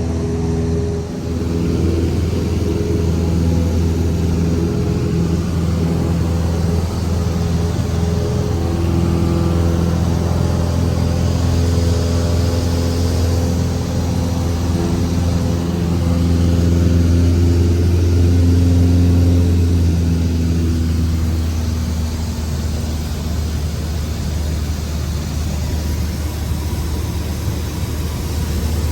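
Cessna 172's piston engine and propeller droning steadily, growing slightly louder about two-thirds of the way through and then easing back.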